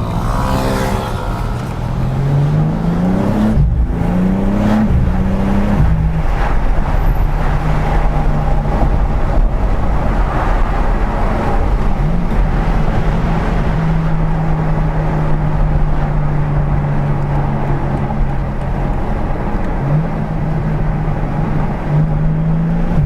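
BMW M4 Competition's twin-turbo inline-six pulling hard through the gears: the engine note climbs and drops back at each of three quick upshifts in the first six seconds, then settles to a steady cruise. Near the end the revs rise briefly twice.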